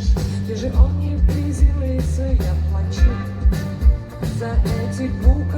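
Live rock band playing a song, with a steady kick-drum beat and a woman's singing voice.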